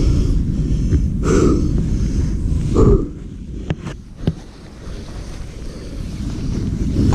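Dirt bike's engine running with wind buffeting the microphone. It is loud at first, eases off about three seconds in, then builds again near the end, with a couple of sharp clicks in between.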